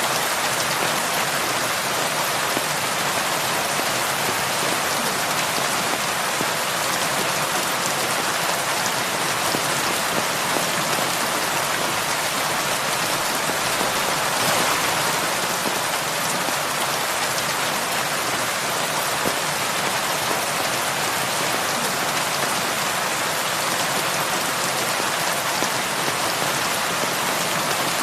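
Heavy rain falling steadily, a dense even hiss of drops, swelling slightly about halfway through.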